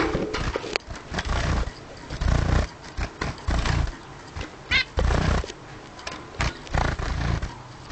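Pet bird giving a short wavering chirp about five seconds in, over repeated low rumbling knocks and rustles that are the loudest sounds.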